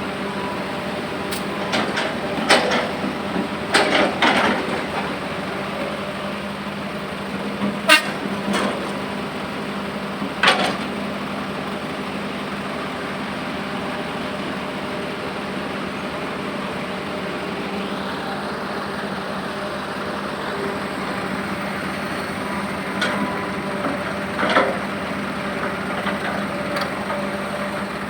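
Heavy vehicle engine running steadily, broken by a handful of short, sharp, loud sounds: a cluster in the first few seconds, one at about 8 s, one at about 10 s, and one near the end.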